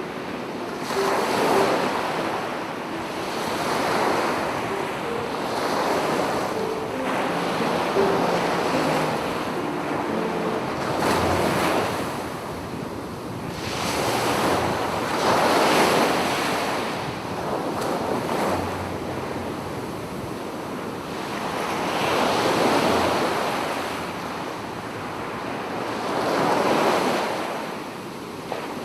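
Sea waves breaking and washing up a beach, swelling and falling every few seconds, with wind rumbling on the microphone.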